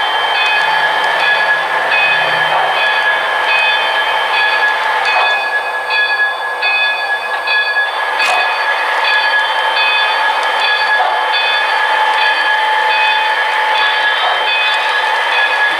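Model train running on the club layout, giving a steady whine made of several held tones, some of them pulsing on and off, with a single brief click about eight seconds in.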